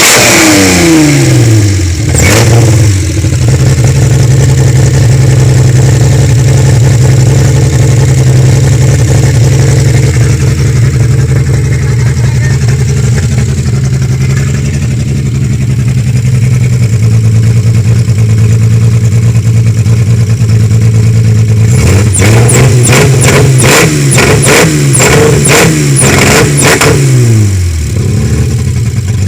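KIA Carnival petrol engine, freshly overhauled and run without its exhaust fitted. It idles steadily after its revs drop back in the first couple of seconds. Near the end it is blipped on the throttle several times in quick succession, then falls back to idle.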